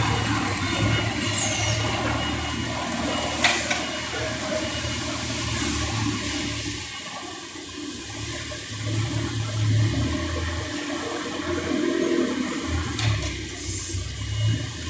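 Automatic feed-bagging and palletizing line machinery running: a steady rushing noise over a low hum that swells and dips, with a few sharp clicks.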